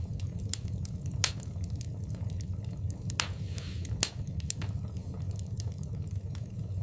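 Wood fire crackling in a fireplace: irregular sharp pops and snaps over a steady low rumble, with two louder pops about a second in and about four seconds in.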